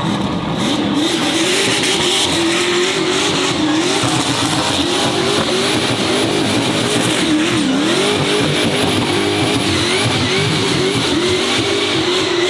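Racing car engine held at high revs, its pitch wavering up and down continuously, with tyres squealing.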